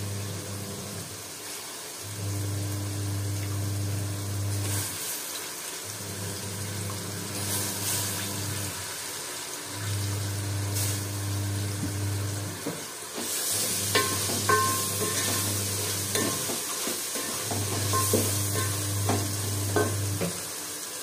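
Tomato masala sizzling in an aluminium pot while fresh fenugreek leaves are stirred in with a wooden spoon, with light knocks and scrapes of the spoon against the pot in the second half.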